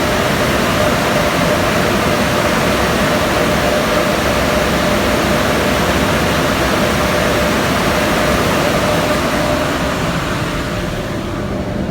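Car wash air dryers of a PDQ LaserWash 4000 blowing on the car: a loud steady rush of air with a steady whine, the rush thinning near the end as the drying finishes.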